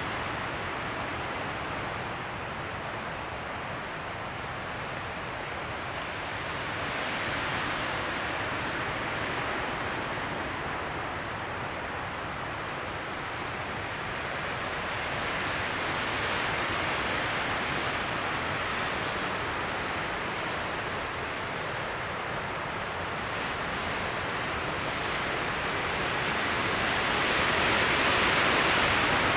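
Mountain wind rushing through trees, rising and falling in slow gusts, the strongest gust near the end.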